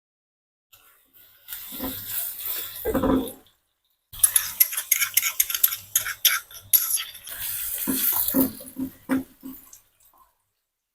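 Water running at a kitchen sink with dishes and utensils clinking, as in washing up. The sound comes in two stretches, a short one and then, after a brief gap, a longer one full of sharp clinks.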